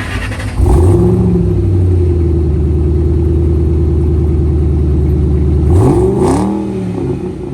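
Car engine revved up sharply and held at a steady high speed for about five seconds, then let off with a quick swoop in pitch and settling back toward idle.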